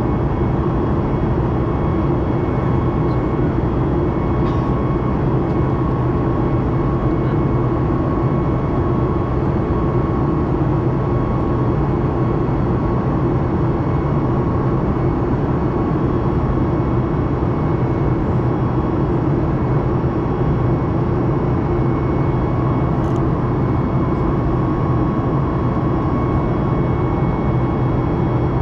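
Steady jet airliner noise inside a Boeing 737 MAX 8 cabin: an even rush of engines and airflow with a faint steady whine, unchanging throughout.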